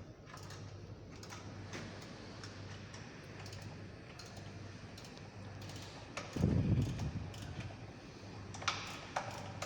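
Scattered light metallic clicks and taps of hand tools being handled on a metal workpiece over a steady low hum, with a dull thump about six and a half seconds in and a quick run of sharper clicks near the end.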